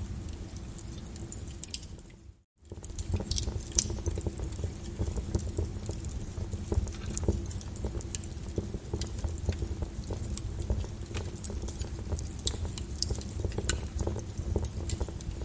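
Wood fire in a fireplace crackling, with irregular sharp pops over a steady low rumble. The sound cuts out completely for a moment about two and a half seconds in, then resumes.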